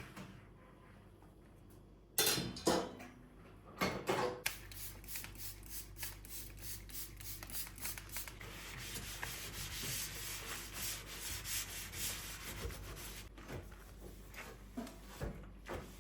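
Scrubbing a surface by hand with quick, even back-and-forth strokes. A few handling knocks come before the scrubbing starts, and the strokes grow fainter near the end.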